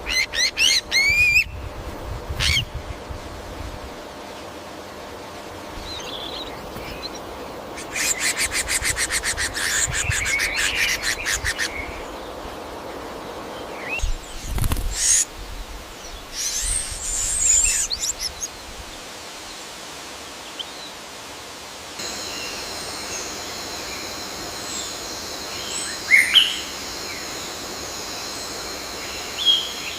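Birds calling in rainforest ambience: a run of quick rising chirps at the start, a fast trill about a third of the way in, scattered short calls, and a steady high-pitched drone of several tones through the last third, with more chirps near the end.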